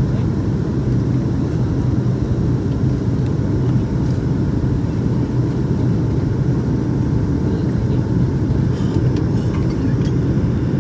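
Steady low rumble of a Boeing 757-200's Pratt & Whitney PW2000 turbofans and rushing air, heard inside the passenger cabin.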